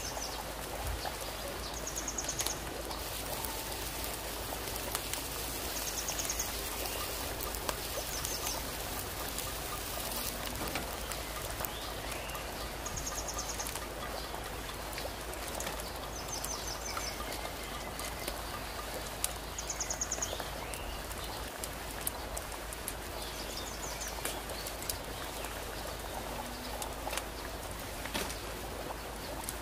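A bird giving a short, high, trilled call again and again, every few seconds, over a steady crackling hiss with scattered clicks.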